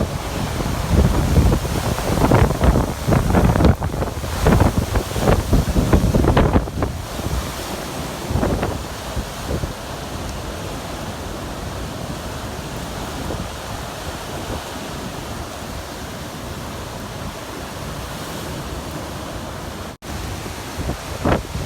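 Wind buffeting the microphone in strong gusts for the first several seconds, then settling to a steadier rush of wind and surf, with a momentary dropout near the end.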